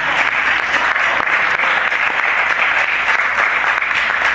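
Church congregation applauding steadily, a dense continuous clapping.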